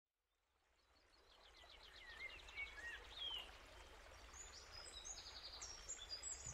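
Faint outdoor ambience fading in from silence: songbirds singing in rapid trills and short chirps over a steady low background noise.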